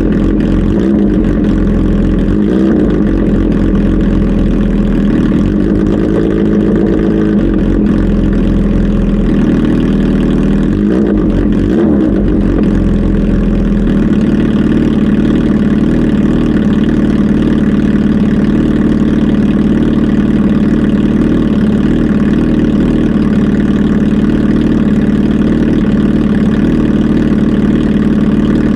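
Kawasaki Z H2 SE motorcycle's supercharged inline-four engine running, its pitch shifting unevenly through the first half, then settling to a steady idle about halfway through.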